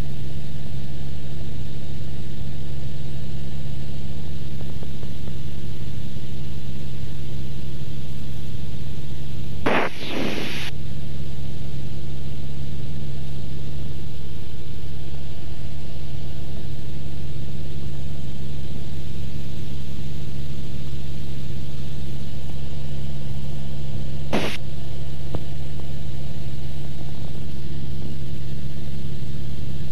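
Cessna 172's engine and propeller droning steadily at cruise, heard from inside the cockpit. A brief burst of noise cuts in about ten seconds in, and a single sharp click comes near the 24-second mark.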